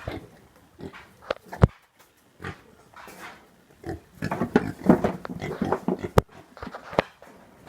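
Pigs grunting in short, irregular grunts, most of them bunched between about four and six seconds in, with a few sharp knocks.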